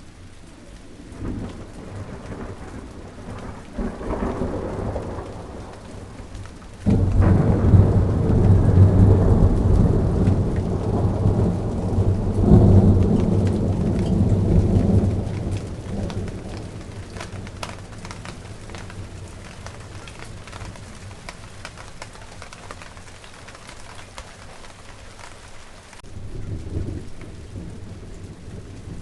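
Steady rain falling with fine drop ticks, and thunder: a soft rumble early on, then a sudden clap about seven seconds in that rolls on for several seconds and fades away, and a shorter rumble near the end.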